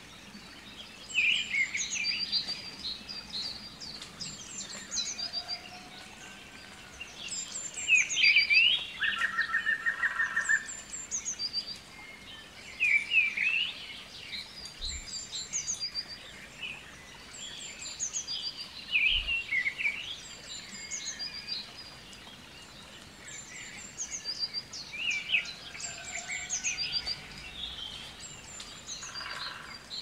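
Birds chirping and singing in short high bursts that recur every five or six seconds, with a brief buzzy trill about ten seconds in and again near the end.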